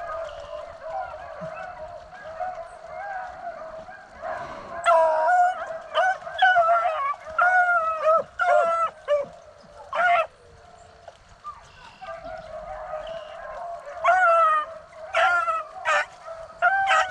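A pack of beagles baying on a rabbit's trail, several hound voices overlapping. The bawling comes in loud runs about five seconds in and again near the end, with a brief lull in the middle.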